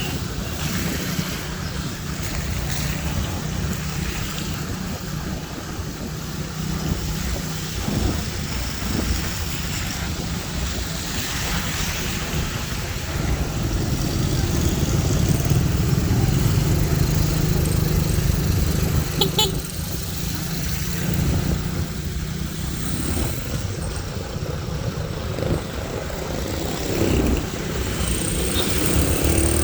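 Motorcycle engine running steadily on the road, with road and wind noise, a little louder for several seconds midway.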